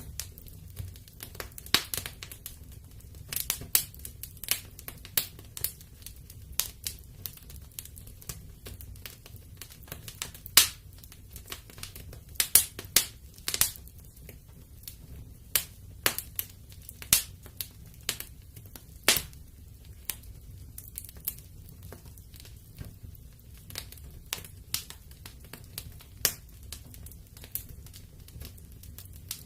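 Wood fire in a fireplace crackling: irregular sharp pops and snaps, the loudest about ten seconds in, over a low steady rumble.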